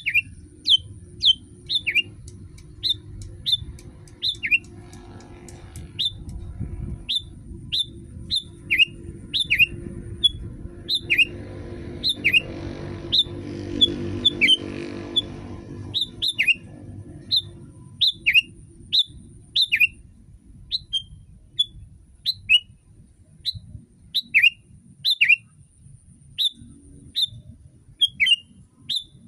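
Sooty-headed bulbul calling: short, sharp falling chirps repeated about once or twice a second, over a low background rumble that swells up in the middle.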